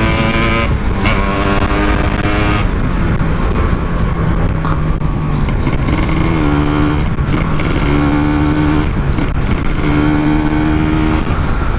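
Kawasaki Ninja 150 RR two-stroke single-cylinder engine in a Yamaha RX-King, ridden hard through its expansion-chamber exhaust. The engine note climbs and then breaks off for a moment several times as the rider shifts up through the gears.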